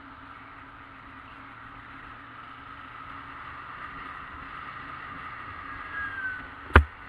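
Steady running noise of a Yamaha XJ600S Diversion's air-cooled inline-four on the move, mixed with wind noise, slowly getting a little louder. A single sharp knock near the end.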